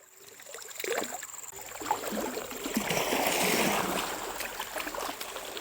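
Water splashing and gurgling with small knocks, swelling to its loudest about halfway through and then easing.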